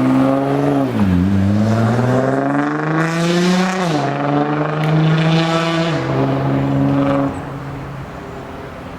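Car engine running with its revs changing: the pitch dips about a second in, climbs steadily to a peak near four seconds, drops back and holds, then the engine gets quieter past seven seconds.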